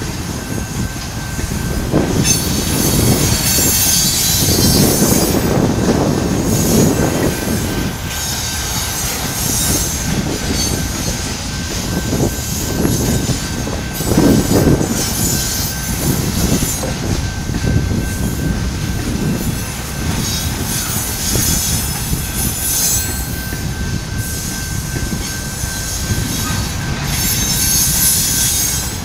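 Freight cars of a Canadian Pacific manifest train rolling past: a steady rumble with occasional clanks from the wheels. The steel wheels squeal in high-pitched screeches that come and go every few seconds.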